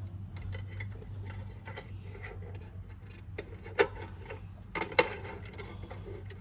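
Air filter canister clamp straps rubbing and clicking as they are threaded through the small holes of the mounting bracket, with two sharper clicks, one just before the four-second mark and another about a second later.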